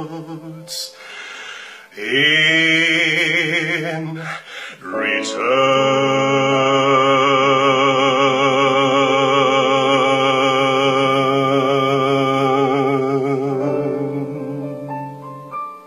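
A man singing long sustained notes with vibrato: a brief note, another of about two seconds, then one long note held for about ten seconds that stops shortly before the end.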